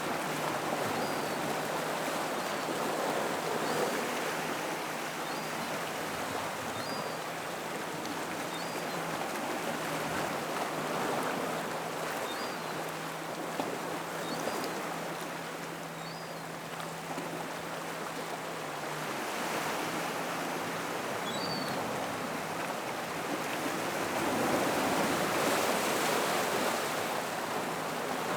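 Gentle ocean waves washing into a rock pool: a steady rush of water that swells and eases. A faint low hum stops about two-thirds of the way through, and faint high chirps repeat about once a second.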